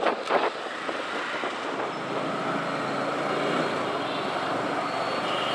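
Steady road and traffic noise with wind, a sharp knock just after the start, and a faint engine hum from about two seconds in.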